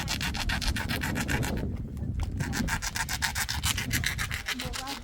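Rapid, regular rubbing or scraping strokes, about eight to ten a second, with a short break near the middle.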